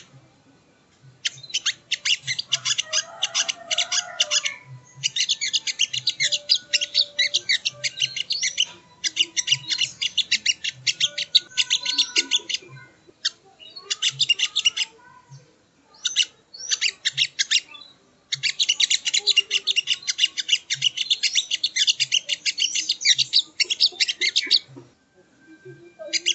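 Sogon (sogo ontong) bird singing: rapid, dense chattering phrases of high notes, each burst lasting a few seconds with short pauses between them.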